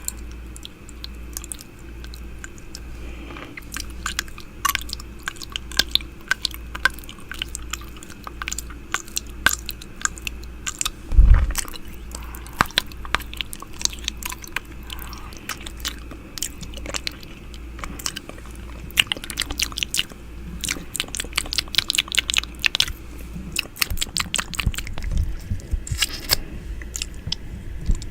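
Close-miked wet mouth sounds of ASMR 'ear eating': rapid lip smacks, tongue clicks and licking pressed against the microphone. A low throb repeats steadily underneath, and one heavier thump comes about eleven seconds in.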